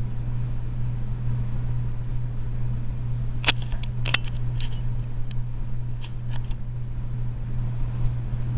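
A steady low hum, with a handful of sharp clicks and ticks around the middle.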